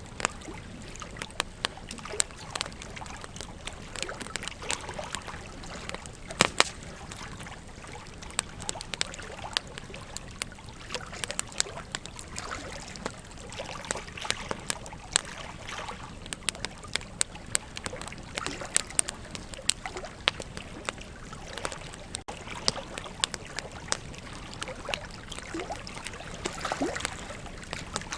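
Burning wood in a campfire crackling, with frequent irregular sharp pops, over a steady rush of flowing river water.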